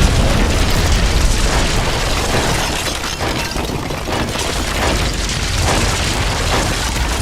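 Cartoon action sound effects: a loud, continuous rumble with booming crashes, under background music.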